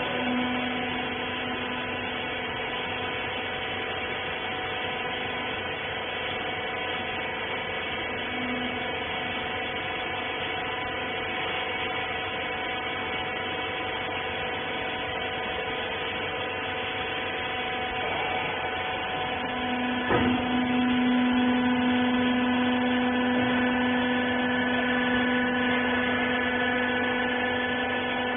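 Industrial rags baler machine running with a steady electric-motor and hydraulic-pump hum. A knock comes about 20 seconds in, and the hum is louder after it.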